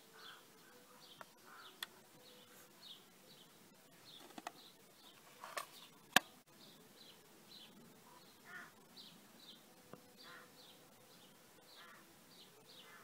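Faint, quick chirps of a small bird repeating a few times a second, with a few light clicks from a portable cassette player being handled, the sharpest about six seconds in.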